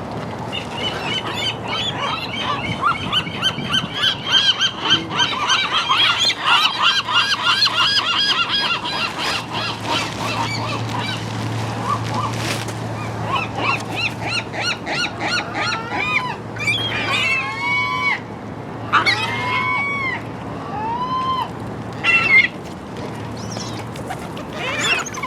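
Gulls calling: a fast run of repeated yelping calls through the first ten seconds or so, then several separate drawn-out, falling cries later on.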